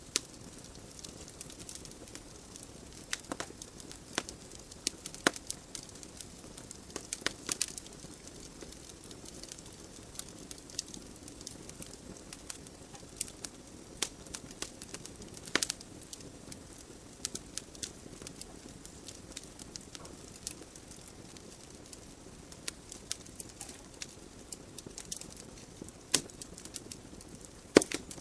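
Wood fire burning in a fireplace: irregular sharp crackles and pops of the logs over a steady low hiss of the flames.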